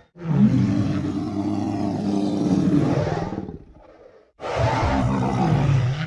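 A low, drawn-out roaring sound effect lasting about three seconds. After a gap of about a second, a second similar roar starts.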